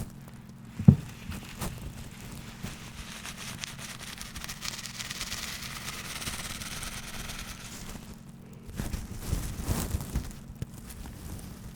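Close-miked ASMR handling of an unidentified object. There is a sharp tap about a second in, then a steady fine rasp of scratching or brushing through the middle, then a quick run of duller taps and knocks near the end.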